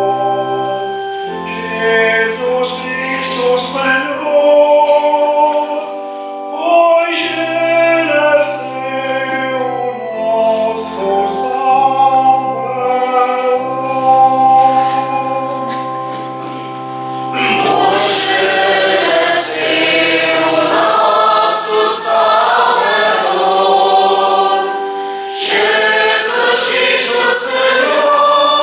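Church choir singing a hymn over a sustained instrumental accompaniment whose low held notes change every second or two.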